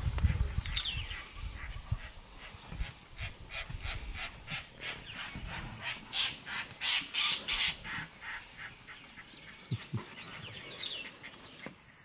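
Birds calling: a rapid run of repeated high notes through the middle, with short sliding calls near the start and near the end. Low rumbling noise in the first couple of seconds.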